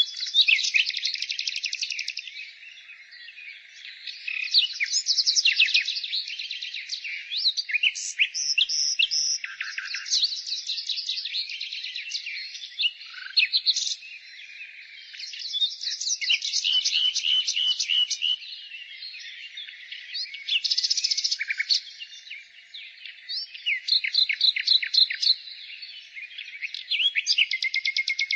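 Songbirds singing: several birds overlapping in rapid trills and chirps, phrase after phrase every few seconds.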